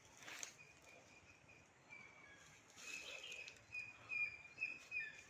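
A bird chirping in a string of short, high, steady-pitched notes, louder in the second half, over faint outdoor background noise. A brief rustle sounds about half a second in.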